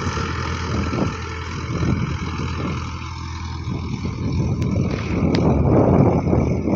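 Tractor engine running steadily, growing louder about five seconds in.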